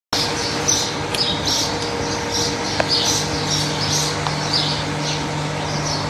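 Small birds chirping again and again, over a steady low hum.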